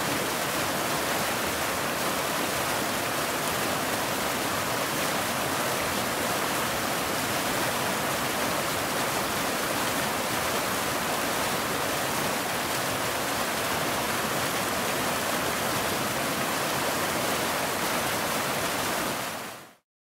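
Waterfall rushing steadily, a dense even hiss of falling water, which dies away quickly to silence near the end.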